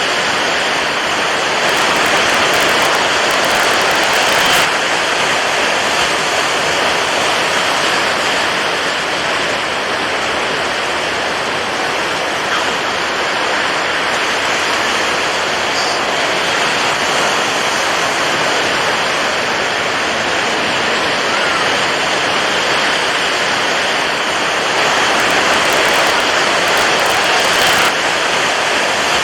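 Water waves: a steady rushing wash of water, swelling a little a few seconds in and again near the end.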